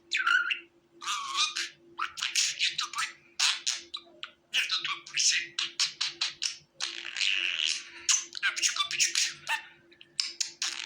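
Budgerigar chattering: a fast run of short high-pitched chirps and squawky warbles, with a longer scratchy warble about seven seconds in.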